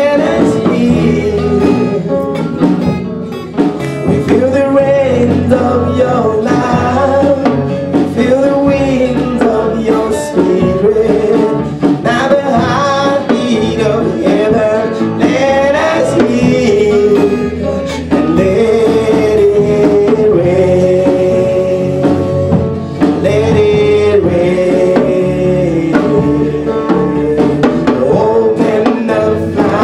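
A man singing a gospel worship song over instrumental accompaniment, the voice carrying a melody with long held notes.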